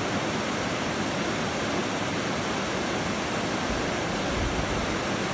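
Steady rush of flowing river water, with a brief low rumble about four seconds in.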